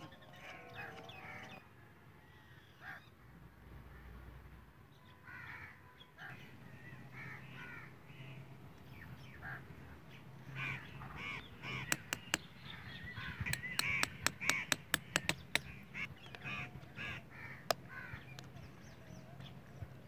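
Birds calling again and again, with a quick run of sharp clicks a little past halfway and a low steady hum underneath.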